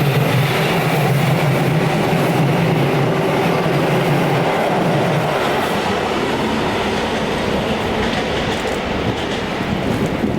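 Train running past close by on the rails, a loud steady rumble of wheels on track, with a low hum that fades out about halfway through.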